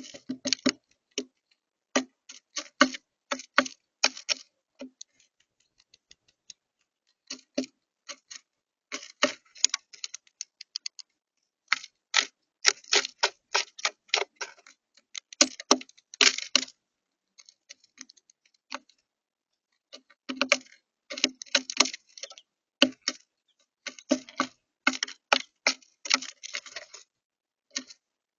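A bird pecking at a bird feeder: sharp, irregular taps in quick runs, broken by short pauses.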